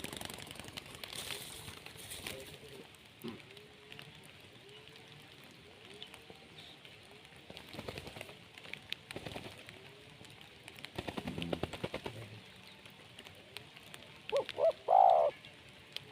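Spotted doves cooing: soft coos repeating about once a second, with scattered clicks and a loud, close call near the end.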